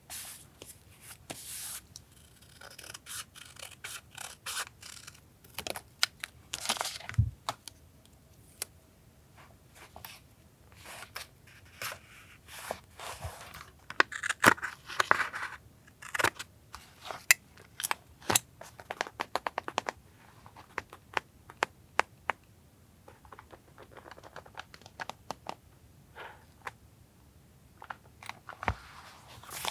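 Paper being handled for a collage journal page: rustling and tearing with snips, set among many sharp taps and clicks. A few longer rustles come near the start, at about a quarter of the way in and around the middle.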